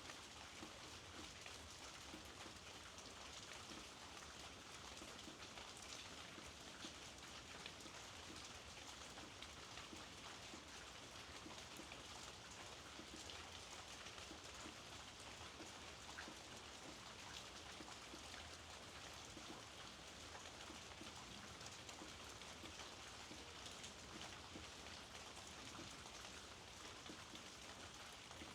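Steady, faint rainfall: an even hiss of many small drops pattering, with no break or change.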